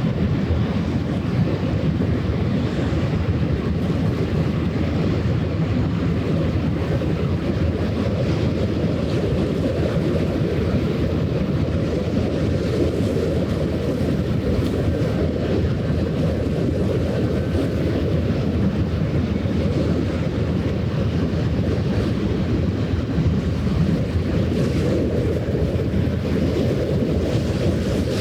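Steady low rushing of wind buffeting the microphone, mixed with water washing along the shore.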